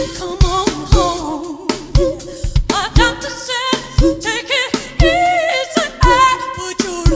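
Soul music from a live band: a voice holding long wavering notes over drums, with a drum hit about once a second.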